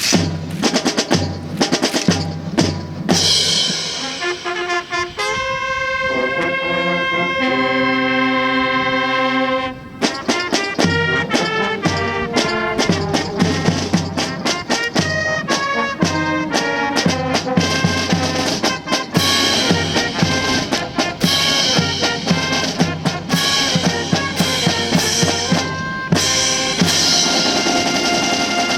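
Military brass band with drums playing honors music for a salute: opening chords with drum strokes, held brass chords from about five seconds in, then a brisk drum-driven march from about ten seconds in.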